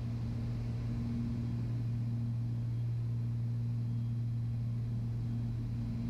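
Steady cabin drone of a Beechcraft Baron B55's twin piston engines and propellers, a constant low hum with no change in pitch.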